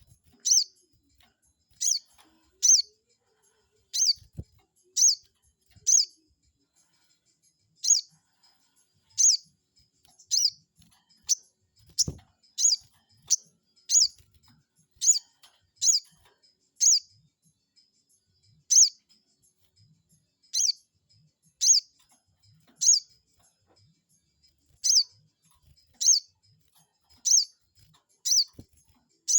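Sogon bird lure call: a long series of short, sharp, high chirps, each a quick downward sweep, about one a second with uneven gaps. It is the kind of aggressive call played to make a rival sogon bird answer.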